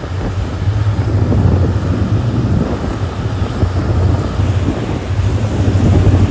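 Steady low rumble and rushing noise of a moving passenger train, State Railway of Thailand rapid train 111, heard from on board, with wind buffeting the microphone.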